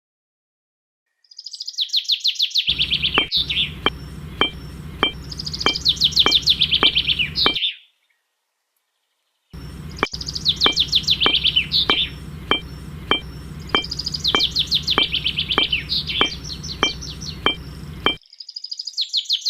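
Birds chirping in quick repeated trills over a steady low hum, with regular ticks about twice a second. The sound cuts out abruptly twice, for about a second and a half each time.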